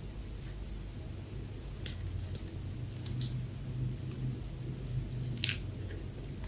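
Close-miked eating sounds: a few scattered soft clicks and crackles from handling and eating soft bread, the sharpest about five and a half seconds in, over a steady low hum.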